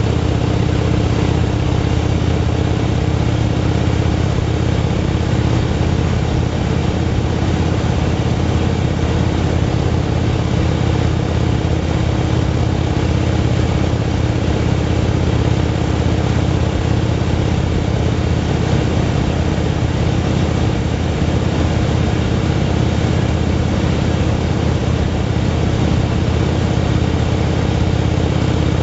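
Motorcycle engine running at a steady speed: an even, unbroken drone with no revving or gear changes.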